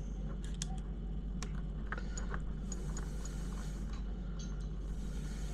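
Scattered light clicks and taps of small RC car parts and hand tools being handled, over a steady low electrical hum, with two soft hissing swells partway through and near the end.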